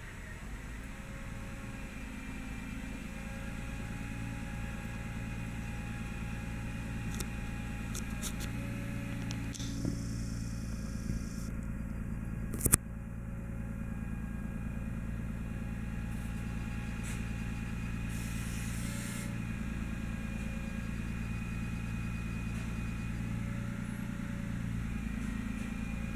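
Utility truck engine running steadily outside, with one sharp knock about halfway through and a few brief hissing bursts.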